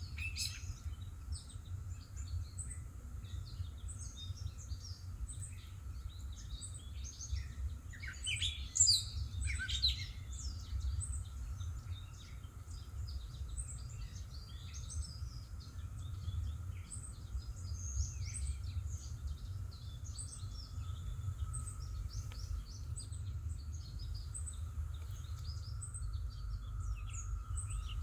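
Wild birds chirping and singing in short calls throughout, loudest about nine seconds in, over a steady low rumble and a faint steady high hum.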